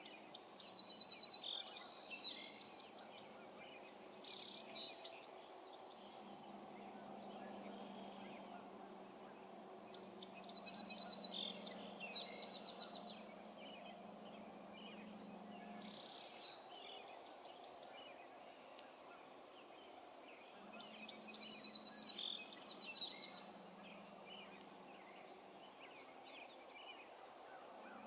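A songbird singing the same song three times, about ten seconds apart, each opening with a quick rapid run of high notes and trailing off into scattered notes. A faint low drone comes and goes underneath.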